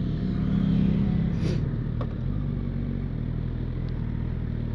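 Motorcycle engine running steadily, swelling louder for a moment about half a second to a second and a half in.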